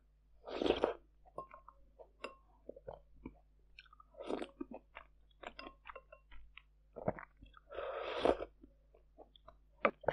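Close-miked eating sounds of fermented sweet rice with glutinous rice balls: wet chewing and many small mouth clicks, with a few louder rushing bursts about half a second in, around four seconds, and twice near seven and eight seconds.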